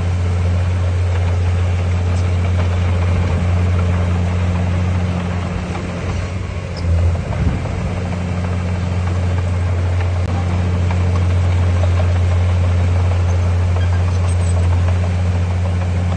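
Heavy diesel construction machine engine running steadily with a deep, even drone, wavering briefly about seven seconds in.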